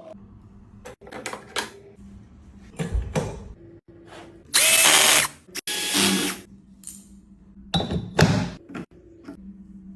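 A handheld power tool running in several short spells, the two longest and loudest about halfway through, with abrupt breaks between them.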